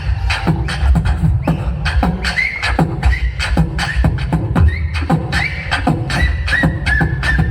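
Live human beatboxing in a South Indian-style rhythm: punchy kick-and-snare sounds about twice a second with quicker clicks between, over a steady deep bass hum. Short high vocal tones join in the second half.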